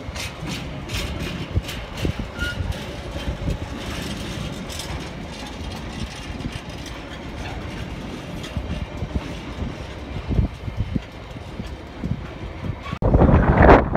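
Empty container flat wagons of a freight train rolling past, wheels clicking over the rail joints at a steady rhythm. About a second before the end, a sudden cut to loud wind noise on the microphone.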